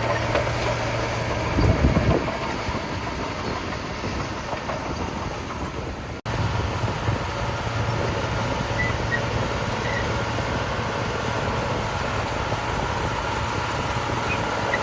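Heavy diesel earthmoving machinery running steadily, with a short loud low rumble about two seconds in. The sound drops out for an instant around six seconds, then the engine hum carries on.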